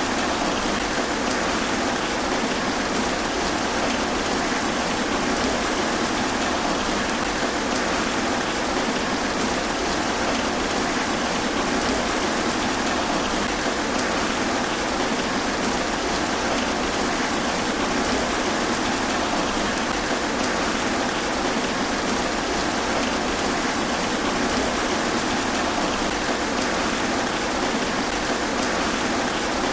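Steady rain falling through trees: an even hiss of countless drops pattering on leaves, with no lulls or thunder.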